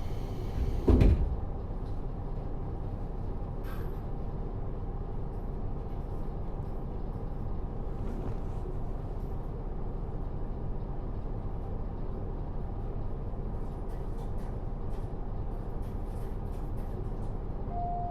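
Inside a JR Hokkaido KiHa 40 diesel railcar with its DMF13HZB diesel engine: steady engine and running noise. A brief loud rush of noise ends about a second in, and there are a few faint clicks near the end.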